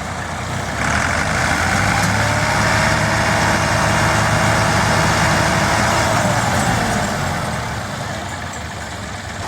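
Tractor diesel engine running, swelling louder and higher about a second in, holding there, then easing back after about seven seconds.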